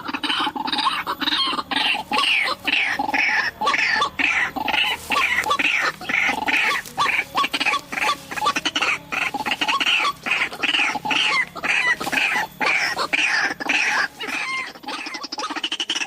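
White-breasted waterhens (ruak-ruak) calling: a dense, continuous run of harsh, croaking repeated notes, several a second.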